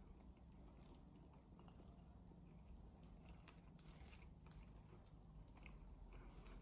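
Faint scattered small clicks and crunches over a low steady room hum.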